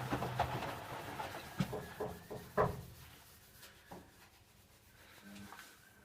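A few faint, irregular knocks and rubs, the loudest about two and a half seconds in, dying away toward the end.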